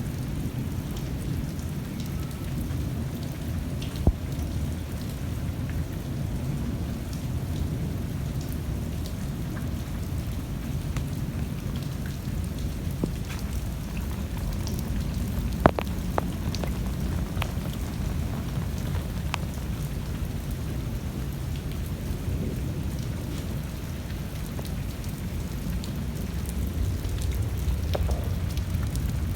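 Steady monsoon rain falling, with scattered sharp drips and taps, the two loudest about four and sixteen seconds in.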